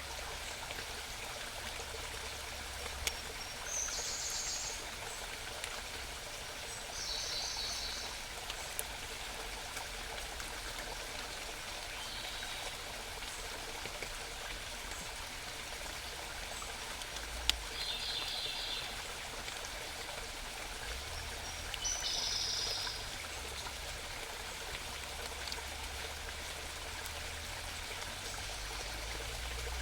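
A small mountain stream babbling steadily, with a songbird singing short, high, rapidly repeated-note phrases about five times, each lasting around a second.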